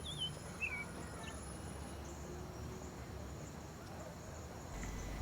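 Faint outdoor ambience: a steady high-pitched insect drone, with a few short, warbling bird chirps in the first second.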